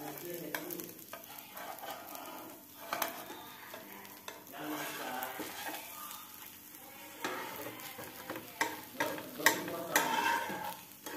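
Uttapam sizzling in oil in a flat pan while a metal spatula scrapes and taps underneath it, working it loose to turn it over.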